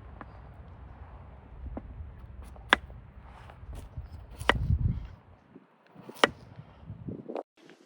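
Chopping: a few sharp, separate strikes one to two seconds apart, over a low rumble that stops about five seconds in.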